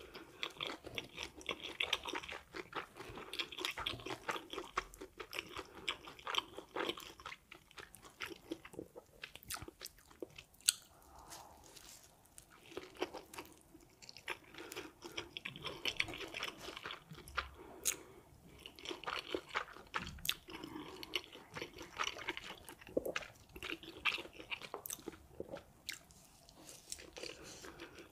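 Crunching and chewing of crispy noodle wraps, bite after bite, with short quieter spells between mouthfuls.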